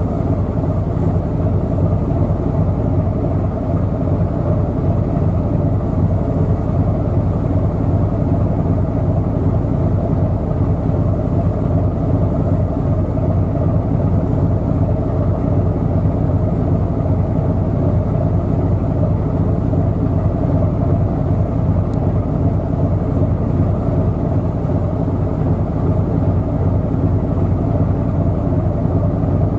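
Steady low drone of a ship's diesel engine, running evenly at constant speed.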